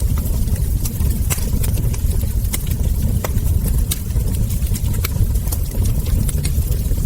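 Wood fire burning: a steady low rumble of flame with many sharp crackles and pops from the logs and embers.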